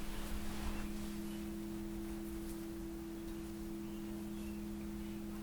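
Two pure tones, one low and one a little higher, held together and steady throughout: sustained ringing from sound-healing instruments such as singing bowls or tuning forks.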